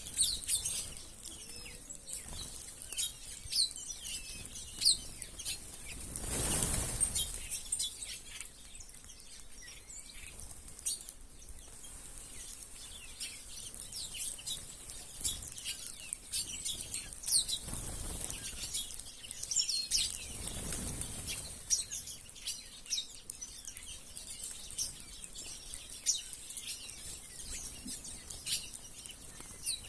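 A flock of small wild birds chirping busily. Three times, about 6, 18 and 21 seconds in, their wings whoosh as the flock flutters up.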